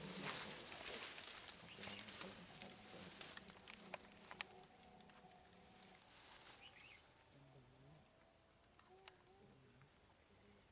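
Forest insects give a steady high-pitched drone, with rustling and a few clicks in the first half and faint voices talking low later on.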